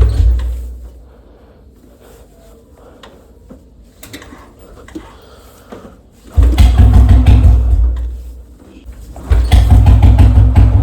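Royal Enfield Bullet single-cylinder engine with a long bottle silencer being cold-started after standing a week: a loud firing burst at the start that dies away, then it fires into a loud, low, thudding run about six seconds in, drops off, and picks up again near the end under throttle.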